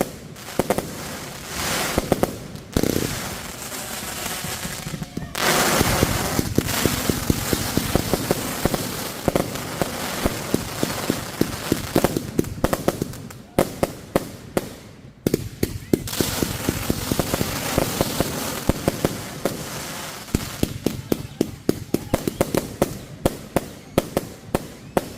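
Consumer firework cakes firing: a long, rapid volley of sharp bangs and reports, many a second, thickening into a dense continuous crackle for several seconds in the middle.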